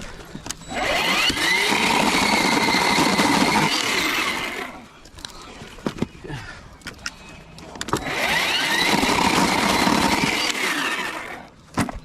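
A small motor runs twice, about four seconds each time, with a steady whirring hum, with a few clicks in the pause between the two runs.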